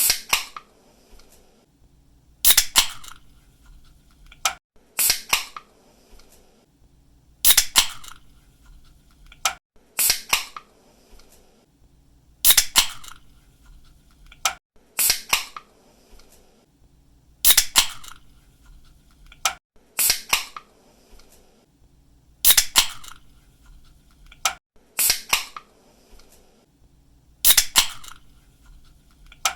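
Pull-tab of a soda or energy drink can being cracked open: a sharp snap followed by a short hiss of escaping gas. This repeats at an even pace, about every two and a half seconds, twelve times.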